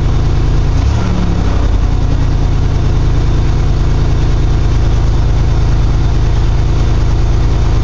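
1982 GMC S-15's carbureted 2.8 V6 idling steadily as it warms up after a cold start, with a brief wobble in the idle about a second in. It runs loud, which the owner puts down to a cracked exhaust manifold.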